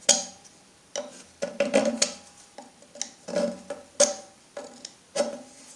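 About ten sharp metallic clinks and knocks at uneven intervals, each with a short ringing after it: metal tools and parts being handled and set down against metal on a workbench.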